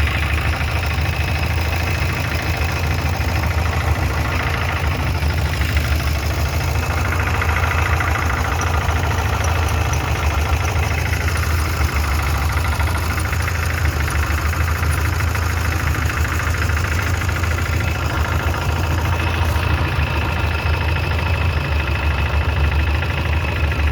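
An engine running steadily at idle, a continuous low rumble with a fast, even throb.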